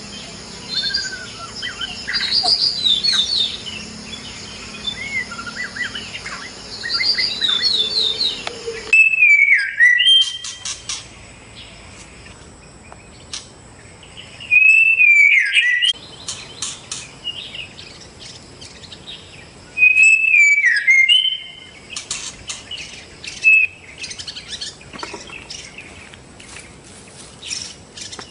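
White-rumped shama (murai batu) singing: a run of varied whistles and chattering notes, then three loud, rich whistled phrases, one about a third of the way in, one near the middle and one about two-thirds through, with short scattered notes between them.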